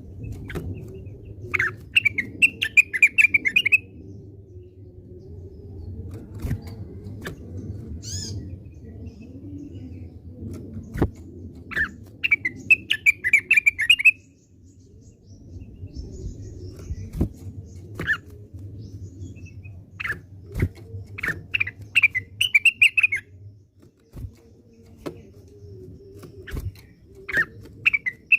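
Cucak wilis leafbird singing: phrases of rapid chirping notes about two seconds long, repeated every several seconds, with sharp single call notes between them. A steady low rumble runs underneath.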